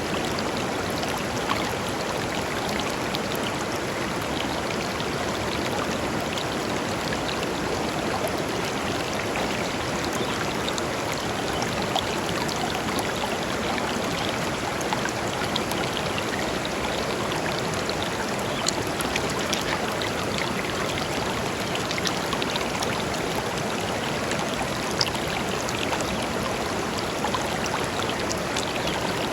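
Shallow river flowing steadily over stones: a continuous rushing babble with small splashes and droplet ticks throughout.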